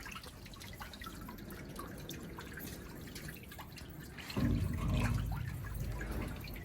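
Water dripping and trickling inside a wet stone-dust collector. About four seconds in, a louder low rumble with a steady hum comes in.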